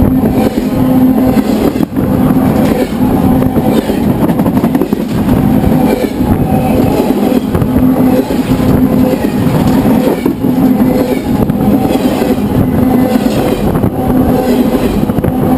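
BNSF freight train cars rolling directly over a microphone lying between the rails: a loud, continuous rumble and rattle of wheels and car bodies, with a steady ringing tone running through it.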